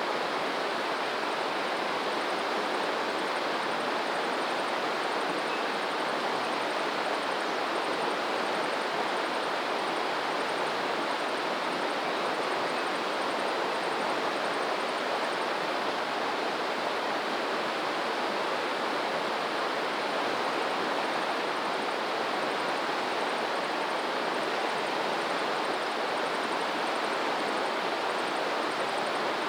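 Steady rushing of flowing water, even and unbroken, with a faint, fast, high ticking above it.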